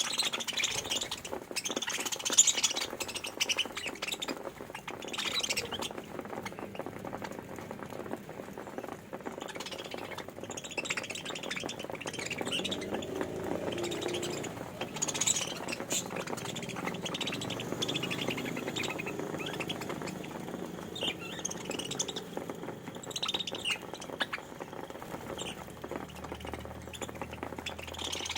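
A flock of budgerigars chirping and squawking: many short, high calls overlapping without a pause.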